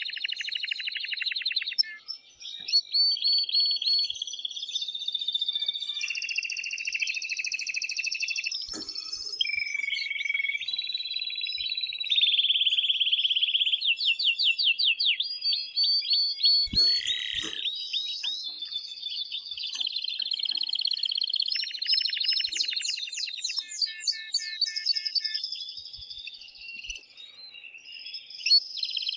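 Male canary singing a long, continuous, high-pitched song of rapid trills and rolls that switch to a new phrase every second or two. It breaks off briefly about two seconds in and again near the end. This is the excited song of a male in breeding condition.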